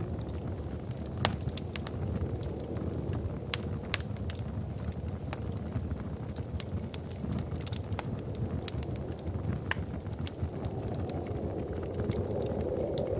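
Wood fire crackling in a fireplace: irregular sharp pops and snaps over a steady low rumble of flames. The flames grow a little louder near the end.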